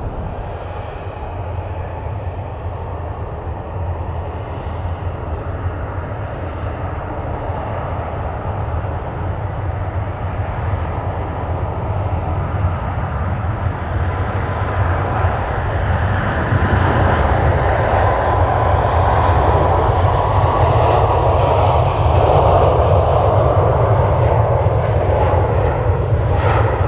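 Jet airliner engines passing close, the steady noise growing louder over the first half and then staying loud, with a thin whine over it in the loud part.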